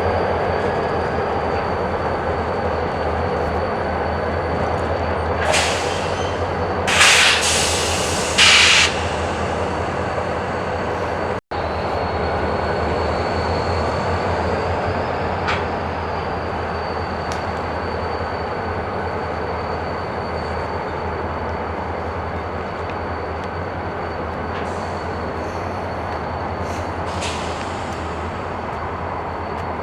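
Freight train cars rolling slowly through a rail yard: a steady rumble with a thin, steady high-pitched wheel squeal, and three short hissing bursts about six to nine seconds in.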